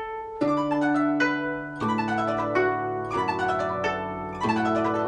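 Guzheng played solo: a passage of plucked notes ringing over sustained low octave notes, with fast runs of high notes.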